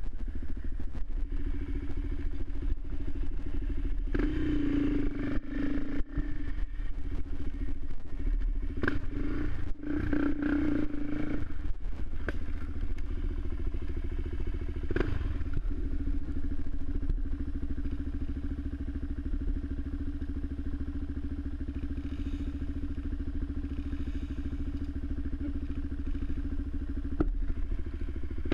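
Suzuki LTZ 400 quad's single-cylinder four-stroke engine running, picking up revs briefly a few seconds in and again about ten seconds in, then holding steady, with scattered clatter and knocks.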